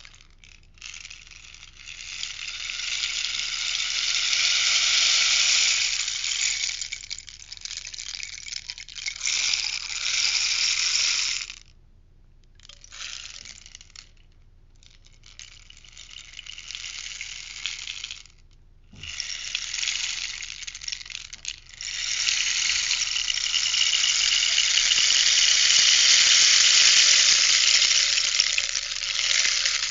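Rainstick being tipped, its fill cascading down the tube in a rushing patter that swells and fades away. There are two long pours, with shorter, quieter ones and brief pauses between them.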